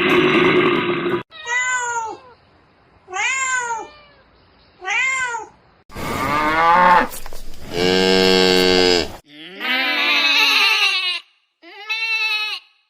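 Domestic cat meowing three times, about a second and a half apart, each call rising then falling in pitch. Then come a longer, lower animal call and two shorter animal calls.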